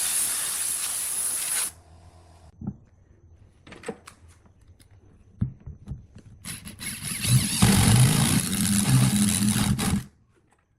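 Wood lathe running while a turning tool cuts the spinning wood, in two loud bouts of cutting noise with a quieter stretch of small knocks between them. The second bout carries a low motor hum and cuts off suddenly near the end.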